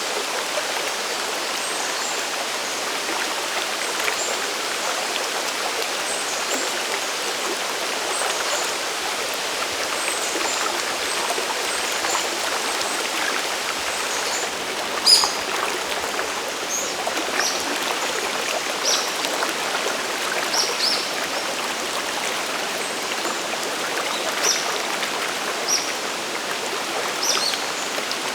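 Steady rush of falling and flowing water from Sagiri Falls and the mountain river below it, with short, high, sharp ticks of splashing here and there and a louder one about halfway through.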